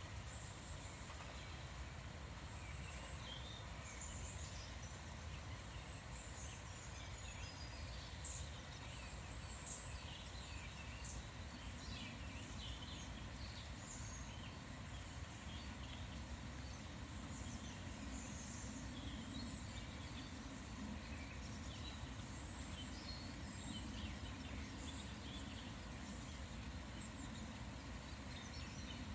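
Small birds singing and calling, many short chirps and phrases scattered throughout over a steady low background rumble. A lower sound joins in about twelve seconds in.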